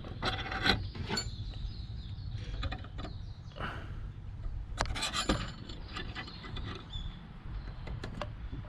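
Light metallic clicks, scrapes and rattles of thin stainless-steel parts being handled and fitted together, in short irregular bursts with a few sharp ticks near the end.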